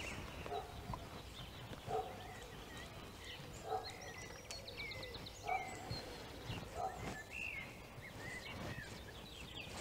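Birds calling: a low two-note call repeated about every second and a half, with higher chirps and a short rapid trill in between.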